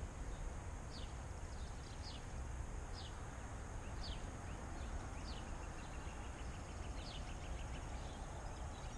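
Small birds calling: short falling chirps about once a second, with a quick trill in the middle, over a steady low background rumble.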